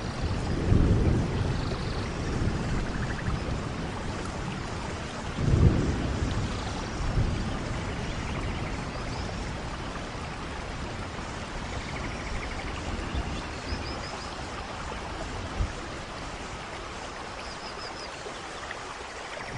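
Steady rain falling on forest foliage, with two deep low rumbles, one about a second in and one near six seconds.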